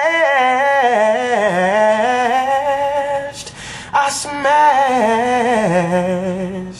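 Unaccompanied solo voice singing a long, drawn-out melismatic run with wavering pitch. It breaks briefly a little past halfway, then carries on in a held run that settles lower in pitch.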